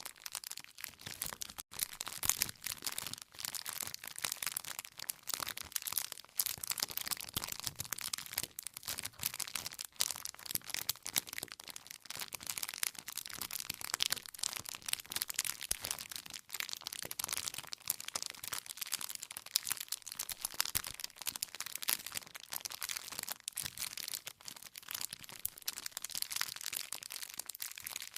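Wood fire burning, with a continuous dense crackle and many small snapping pops from the burning logs.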